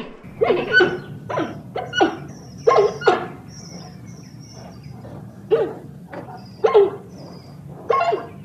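Giant panda giving a run of short pitched calls, several in quick succession in the first few seconds and then spaced a second or so apart.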